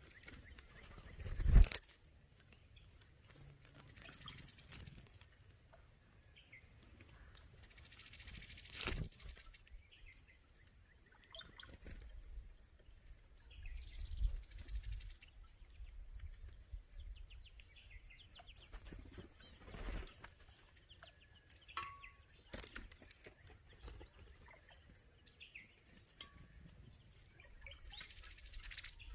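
Downy and red-bellied woodpeckers at a suet feeder: a few sharp knocks and wing flutters, with short high chirps now and then and a brief run of quick ticks about halfway through.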